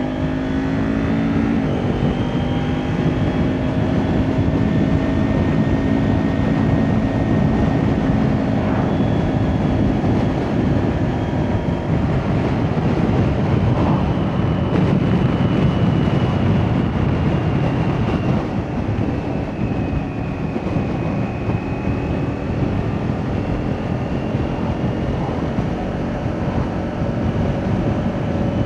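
Kawasaki Ninja 400 parallel-twin engine with an Akrapovic exhaust under way: a gear change about a second and a half in, then a steady cruise whose pitch slowly eases, with wind rush over the microphone.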